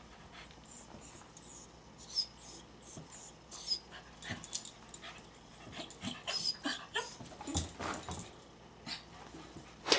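Small dog, a Bichon Frise, making excited noises: short, irregular sounds that start about two seconds in and come more often and louder toward the end.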